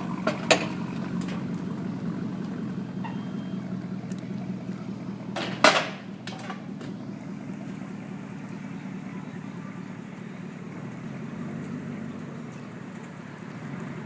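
2006 Chevy Avalanche's 6.0-litre V8 idling steadily through a chambered Power Stick muffler, with the stock resonator left in place. A sharp click comes about half a second in, and a louder single knock a little before the six-second mark.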